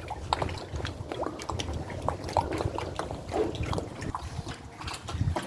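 Small lake waves lapping and splashing irregularly at the water's edge, with wind rumbling on the microphone.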